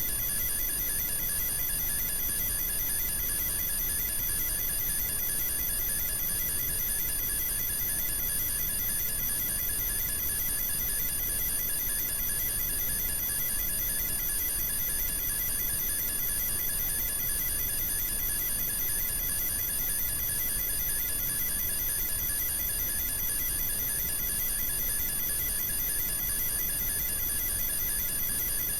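Steady electronic signal: several high-pitched tones sounding together with a fast fluttering pulse, unchanging throughout, over a faint low hiss.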